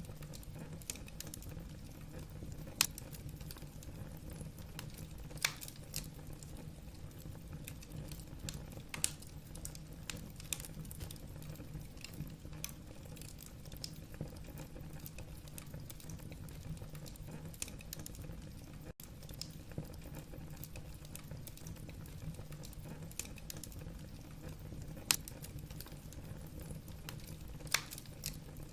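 Wood fire burning in a fireplace, the logs crackling with many small clicks over a steady low rumble, and a few louder sharp pops scattered through.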